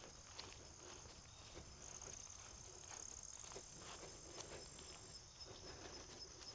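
Faint footsteps on a trail at a steady walking pace, over a steady high-pitched insect chorus.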